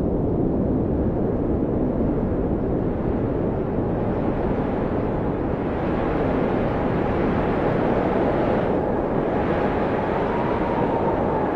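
Blizzard wind blowing steadily in a dense rushing noise, with a stronger gust about nine seconds in and a faint howling whistle that rises and falls in pitch near the end.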